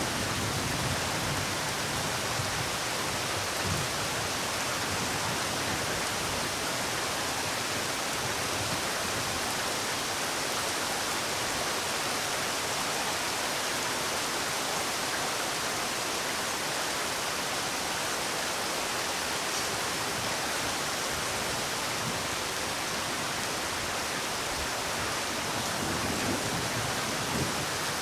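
Steady rain falling, a constant even hiss with a few faint low thumps.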